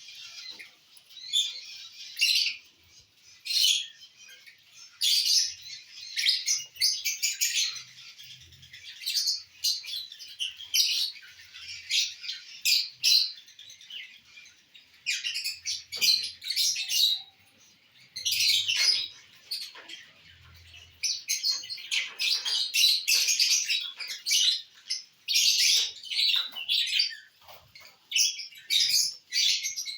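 Lovebirds chattering: runs of rapid, high-pitched chirps coming in short bursts, with a couple of brief lulls.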